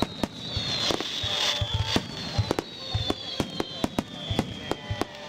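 Aerial fireworks shells bursting in a rapid, irregular string of sharp bangs over crackling, with a high whistle slowly falling in pitch.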